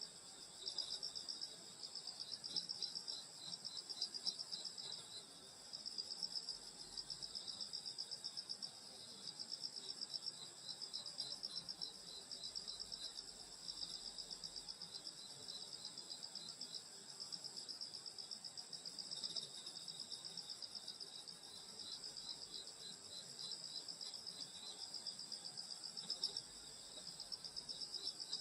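A chorus of night-singing grass insects such as crickets: one steady high trill goes on throughout, and over it another insect chirps in rapid pulses, in runs of a second or two with short breaks.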